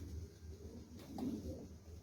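Domestic pigeons cooing, several birds overlapping in a low murmur, with a louder coo a little past halfway.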